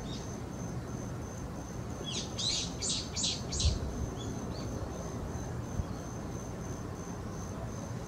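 A bird calls a quick run of five sharp, high notes about two seconds in, over a faint, steady, high-pitched insect trill.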